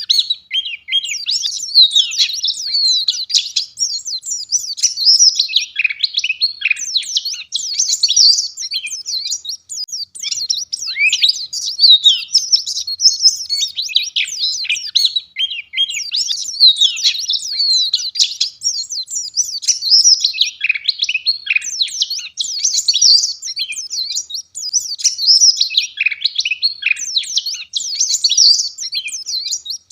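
White-eye (pleci) singing vigorously: a rapid, unbroken stream of high-pitched chirps and twitters.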